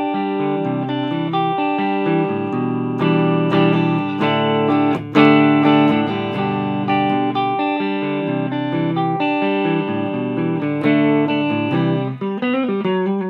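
Electric guitar, a Gibson Les Paul, played through channel 1 of a Mesa Boogie Dual Rectifier tube amp set to 50 watts with the gain, volume and presence turned up, into a Marshall 1960A 4x12 cabinet. Picked chords and single notes ring on one another, with a harder-picked accent about five seconds in.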